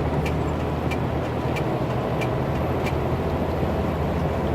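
Truck engine droning steadily inside the cab while driving, with light regular ticks about every two-thirds of a second over the first few seconds.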